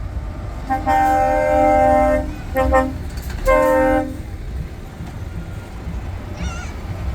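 Truck air horns sounding a multi-note chord in three blasts, a long one about a second in, a short one and another shorter one, over the low rumble of passing truck engines.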